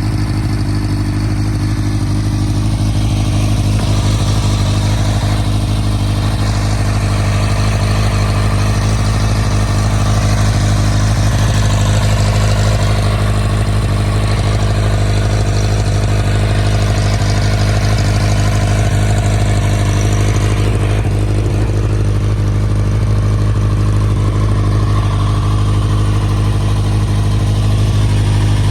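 2012 Kawasaki Ninja ZX-6R's 599 cc inline-four engine idling steadily.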